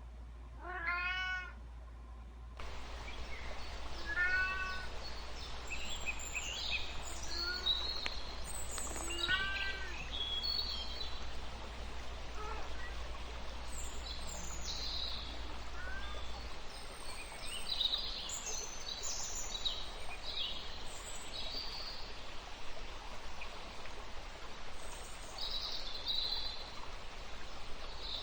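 A kitten meowing, several separate rising-and-falling meows in the first ten seconds or so, fainter ones after. Short high-pitched chirps come and go over a steady background hiss, more of them in the second half.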